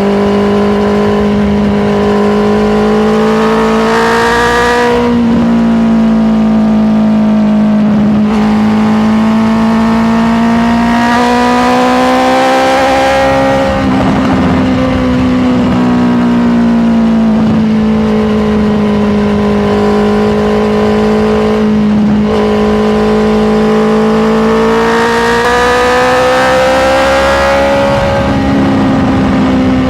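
Honda CBR650R's inline-four engine running under way, its note rising and falling gently with the throttle. There are brief breaks in the note about five, fourteen and twenty-two seconds in.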